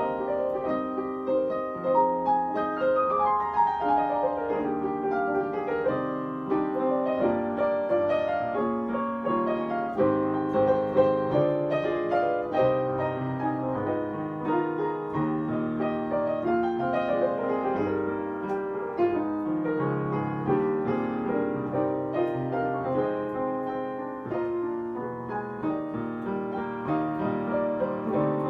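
Piano playing a flowing melodic piece, with quick descending runs of notes.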